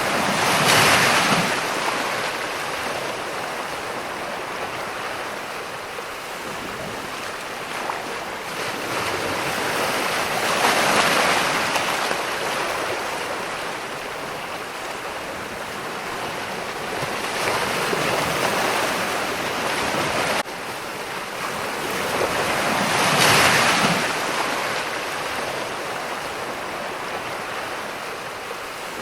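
Ocean waves breaking on a shore: a steady hiss of surf that swells four times as waves crash and wash in, then falls back between them.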